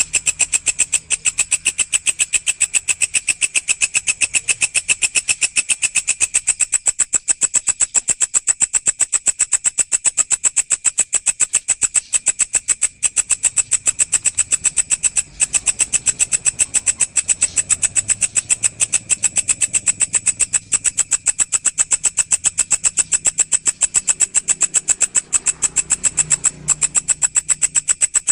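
Walang (grasshopper or katydid) stridulating: a loud, steady, rapid rasping chirr of evenly repeated short pulses, pitched high with a second, higher band above it.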